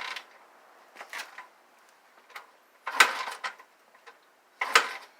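Dirt bike being kicked over: three loud clattering strokes of the kick-starter about two seconds apart, with the engine turning over but not catching. The cold engine, unstarted since summer, won't fire.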